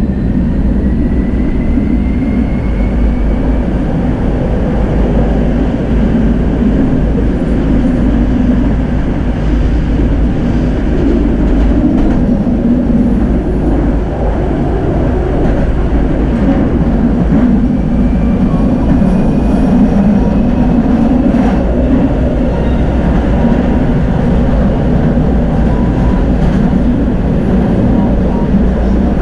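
Tram running along its track: a loud, steady rumble of wheels on rails and running gear. A faint rising whine comes in near the start and again about two-thirds of the way through.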